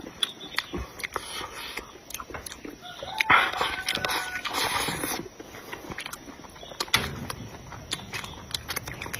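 Close-miked eating sounds: chewing with many small mouth clicks, and a louder, noisier stretch of mouth sound from about three to five seconds in.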